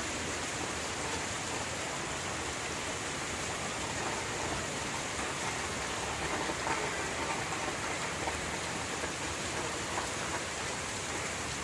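Steady rain falling: a constant hiss with a few faint taps of drops.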